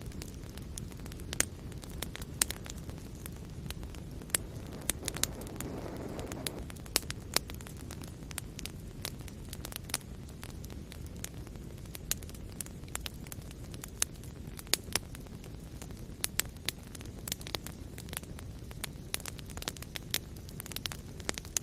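Fire burning in a fireplace, crackling with frequent sharp, irregular pops over a steady low rumble of flames. A brief soft hiss comes about five to seven seconds in.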